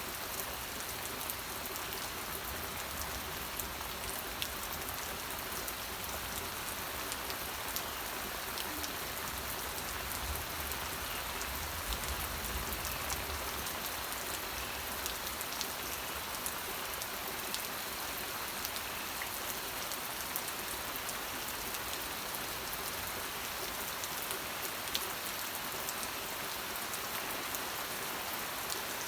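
Steady rain, a constant hiss with many small sharp drop impacts scattered through it.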